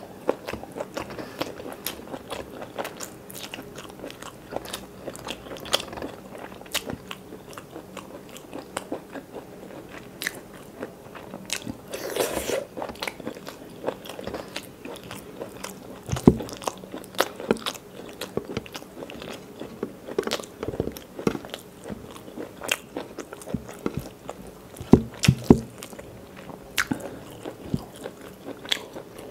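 Close-miked eating: chewing and wet mouth clicks as curry and rice are eaten by hand, with a string of short sharp clicks and a few louder knocks about halfway and again about 25 seconds in.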